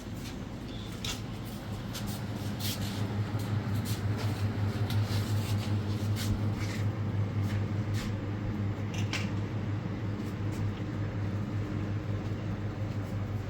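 Steady low motor hum, a little louder from about two seconds in, with scattered light clicks.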